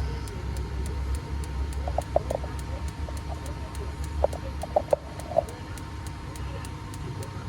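ECU test bench running with a steady low hum and faint, even ticking about three or four times a second. A few short chirps sound about two seconds in and again around four to five seconds in.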